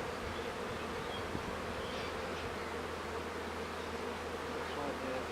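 Swarm of honeybees buzzing steadily around an open hive.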